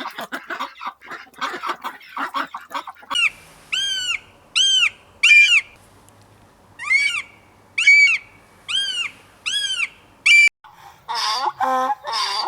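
A bird calling in a series of about eleven short squawks, each arching up and down in pitch. Rapid chattering calls come before it, and near the end a different, lower-pitched animal call takes over.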